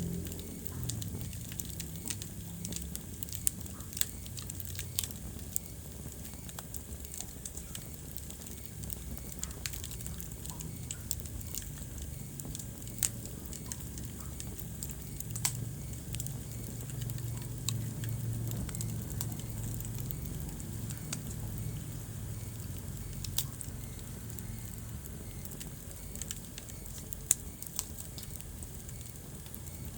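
Wood fire crackling in a fireplace: irregular sharp pops and snaps, a few louder than the rest, over a low steady rumble of burning flames.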